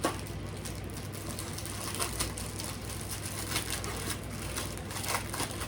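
Graham crackers being snapped into pieces and laid in a pan, with wrapper crinkling: a scatter of small irregular clicks and crackles, a few sharper snaps about two seconds in and near the end.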